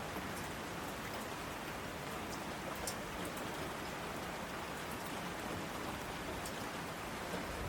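Steady rain falling, with a few sharper individual drop ticks. It is an even, unbroken hiss with no thunder.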